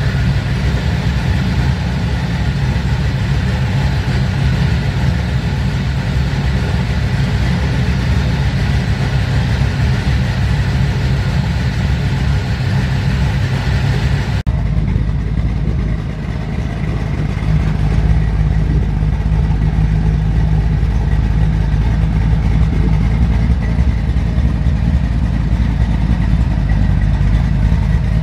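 Freshly rebuilt 351 Windsor 5.8 L small-block Ford V8 running steadily at idle. About halfway through the sound is taken from the rear of the car, and the exhaust note carries more low rumble.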